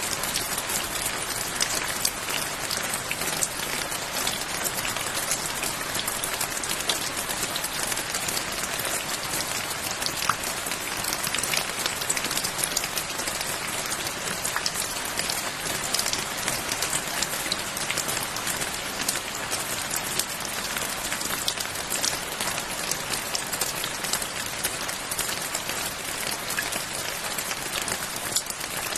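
Steady rain falling on a surface, a continuous hiss with many fine drop ticks and no thunder.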